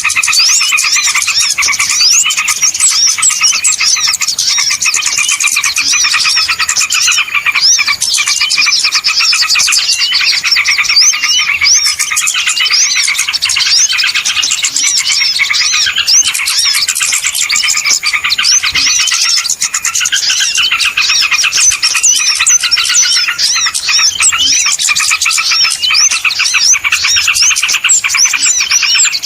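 A noisy chorus of many small songbirds chirping and twittering over one another without a break, used as a lure call to draw small wild birds in.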